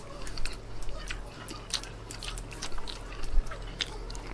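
Close-miked chewing of food, with many short wet mouth clicks and smacks at irregular intervals, over a low steady hum.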